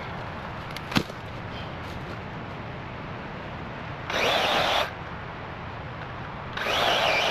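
Battery electric chainsaw revved briefly for under a second about four seconds in, then started again about six and a half seconds in and kept running. A sharp knock about a second in.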